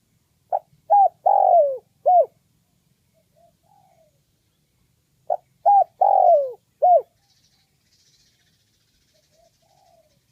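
Spotted dove cooing: two four-note phrases about five seconds apart, the third note of each the longest and falling in pitch.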